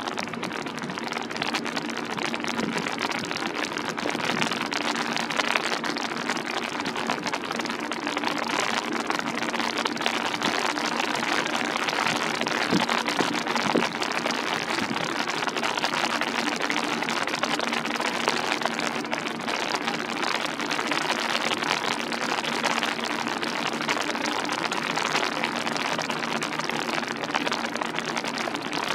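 Steady rain pattering, a dense hiss of many small drop ticks, with a faint steady low hum underneath.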